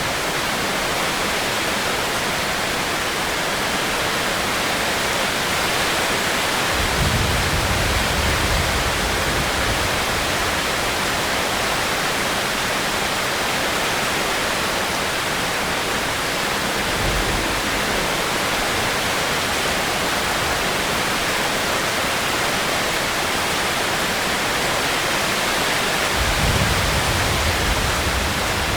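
Steady heavy rain, a dense even hiss of falling water, with low rumbles welling up three times: a long one about a quarter of the way in, a short one midway, and another near the end.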